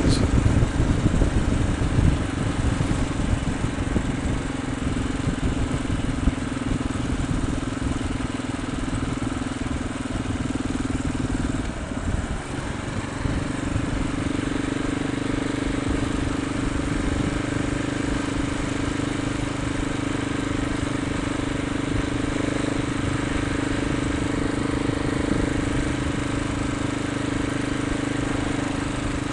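Motorcycle engine running at a steady cruise. The note holds one pitch with a low rumble underneath, dips about twelve seconds in, then settles again at a slightly higher pitch.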